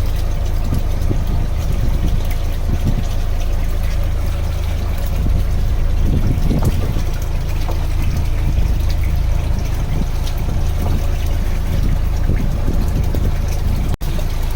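Fishing boat's engine running with a steady low hum, with water trickling and splashing over it. The sound drops out for an instant near the end.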